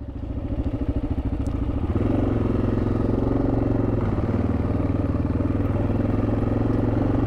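Single-cylinder four-stroke engine of a 1987 Yamaha XT600Z Ténéré motorcycle running at low revs. It picks up about two seconds in and then runs steadily.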